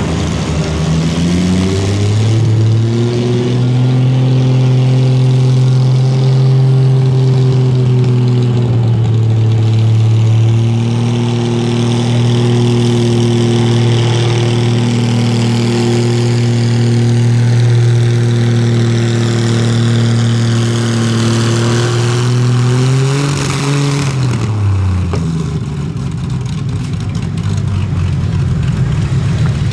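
A pulling vehicle's engine revs up and holds at high, steady revs under load for about twenty seconds, flares briefly, then drops off near the end of the run.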